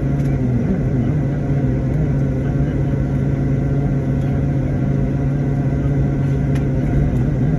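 Steady drone of an airliner's cabin: engine and air noise with a constant low hum and a faint high tone, unchanging throughout.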